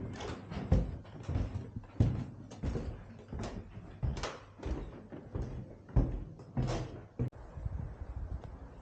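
A run of irregular knocks and thumps, ending in a single sharp click a little past seven seconds in, after which only a quieter steady noise remains.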